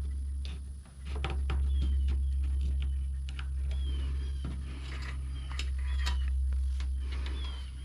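Small clicks and taps of hands fitting crimped wire connectors back onto the stop-switch terminals of a Redmax EBZ7500 leaf blower, over a steady low hum. Short high chirps recur throughout.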